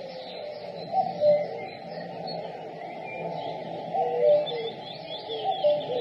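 Common cuckoo calling its two-note falling "cu-ckoo", three times. Other small birds twitter faintly in the background.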